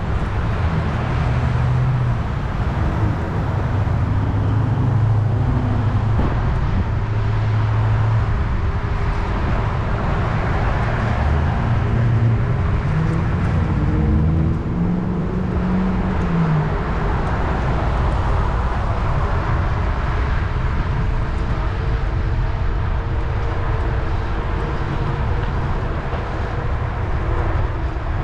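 Road traffic noise heard from a moving bicycle, with a steady, heavy low rumble of wind on the microphone. Faint engine or tyre hum from passing vehicles comes in and out, more in the second half.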